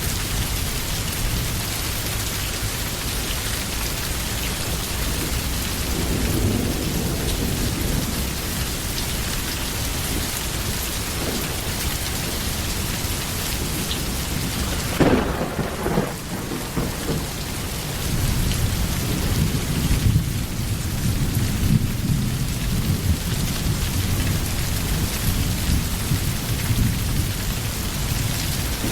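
Steady rain recording with thunder. A sudden loud crack comes about halfway through, followed by low rumbling with sharper peaks.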